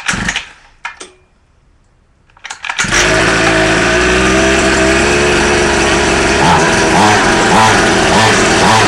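Small 49cc two-stroke pocket bike engine on a homemade motorized bicycle being started: two short attempts, then it catches about three seconds in and keeps running loudly, its pitch wavering slightly.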